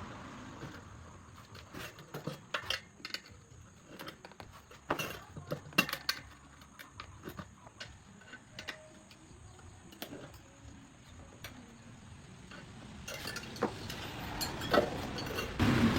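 Metal hand tools clinking and tapping in irregular strokes while a motorcycle's punctured tyre and inner tube are worked on. Traffic noise swells near the end.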